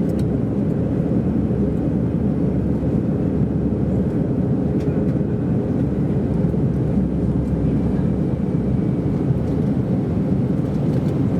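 Steady cabin noise inside an Airbus A319 in flight after takeoff: an even, unchanging roar of engine and airflow, heaviest in the low end.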